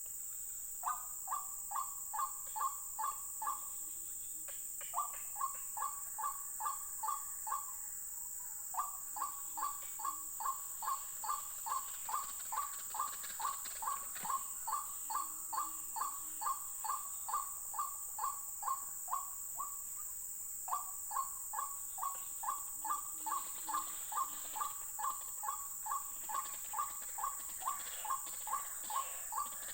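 White-breasted waterhens (ruak-ruak) calling: runs of a repeated harsh note, about two and a half a second, with short breaks between runs, over a steady high-pitched drone.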